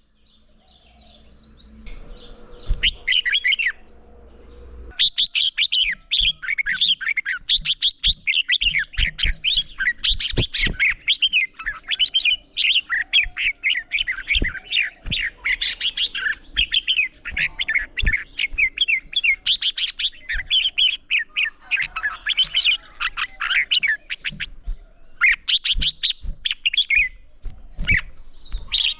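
Red-whiskered bulbul singing a fast run of chirping, warbling phrases, its vigorous competition song. Sparse for the first few seconds, then continuous from about five seconds in, with scattered soft low knocks beneath.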